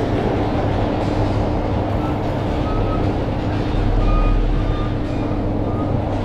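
Steady running noise of a train heard from inside a passenger coach: a deep rumble with a steady hum. Faint, short high tones come and go from about two and a half seconds in.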